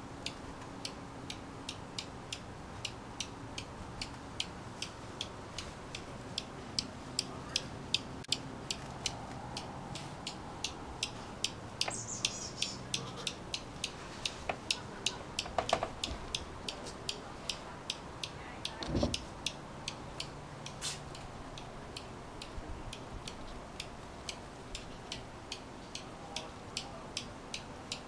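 An adult bird giving repeated sharp alarm chips, about two a second: a parent scolding to guard its nestlings.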